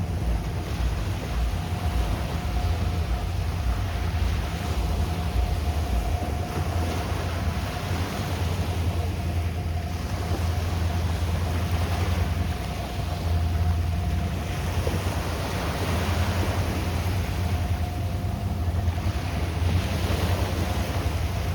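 Sea waves washing onto a sandy beach, swelling twice in the second half, with wind rumbling on the microphone and a faint steady motor hum under it.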